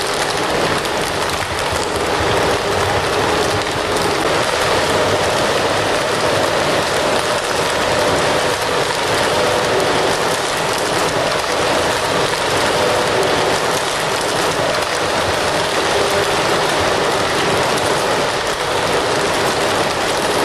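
Wood fire burning with a steady, dense crackle and hiss, no pauses.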